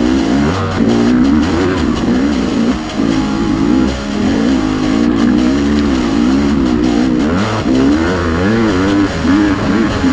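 Off-road dirt bike engine revving up and down again and again as the rider works the throttle on a trail ride.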